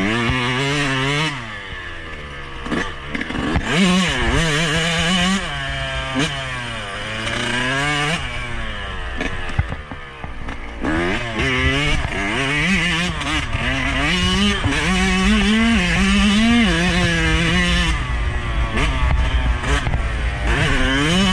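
Yamaha YZ125's single-cylinder two-stroke engine being ridden hard, its pitch climbing and falling again and again through throttle blips and gear changes.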